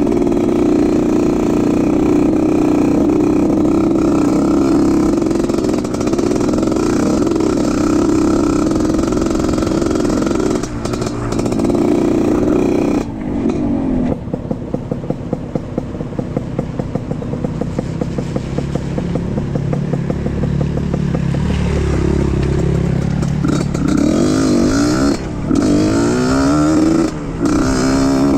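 Off-road trail motorcycle engine running under load at a steady pitch, then dropping back about halfway through and revving up and down several times near the end.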